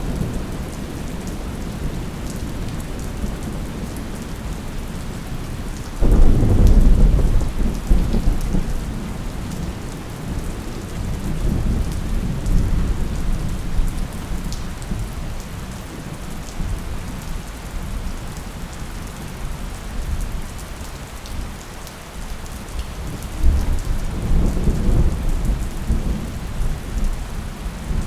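Steady rain with thunder: a sudden loud rumble of thunder about six seconds in that dies away over several seconds, and another rolling rumble near the end.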